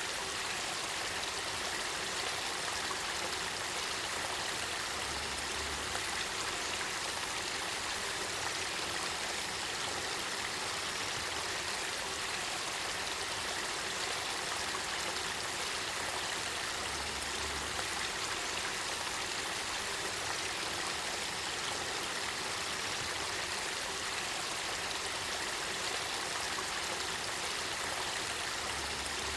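Spring-fed river water flowing and babbling steadily.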